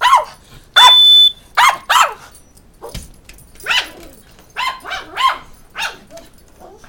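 A dog barking at a smoke alarm in short, high barks, about nine at uneven spacing. About a second in, one loud half-second beep of the smoke alarm sounds under a bark.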